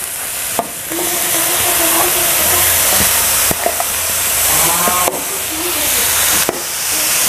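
Freshly washed oyster mushrooms sizzling in hot oil in a metal wok, a loud steady hiss of frying and steam as their water hits the pan. A few sharp clicks of the metal spatula on the wok.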